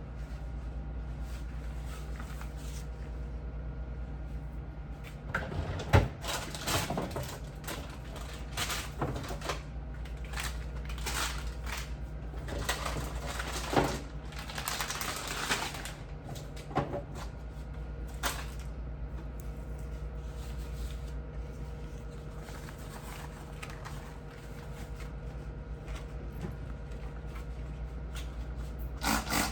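Scattered knocks, clatters and short rubbing or scrubbing sounds of things being handled and cleaned, over a steady low hum. The handling is busiest in the first half.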